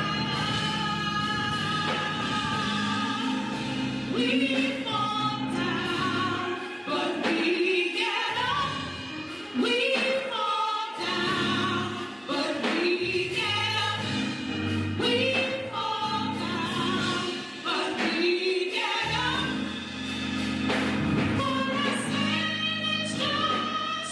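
Gospel choir singing over a sustained instrumental accompaniment.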